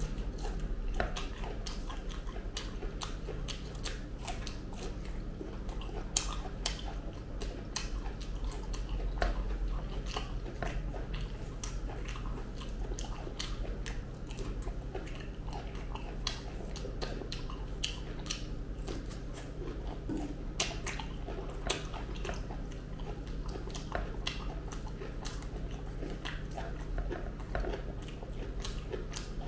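Close-miked chewing and biting of soft, ripe jackfruit flesh: irregular wet mouth clicks and smacks. A steady low hum lies underneath.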